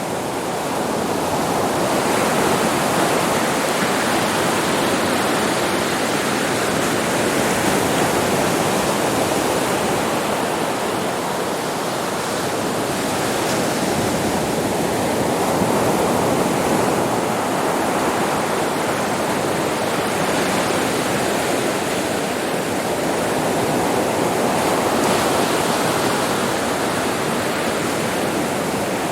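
Sea waves breaking on a beach: a continuous rush of surf that swells and eases every several seconds.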